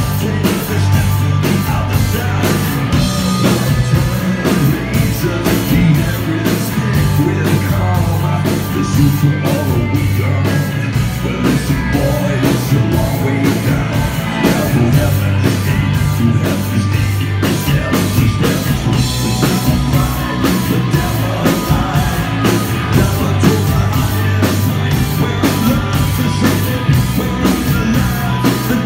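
Rock band playing live: full band with drums keeping a steady beat and sung vocals.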